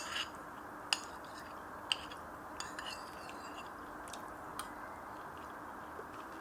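Metal utensil clinking against a dish, several light, scattered clinks with a short ring, the loudest near the start, as scrambled eggs are being prepared.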